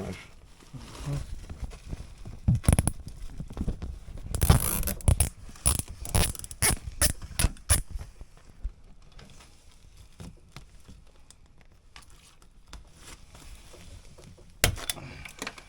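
Hands working on a dehumidifier: a quick run of sharp clicks, knocks and scrapes for several seconds, then quieter fiddling, and one more knock near the end.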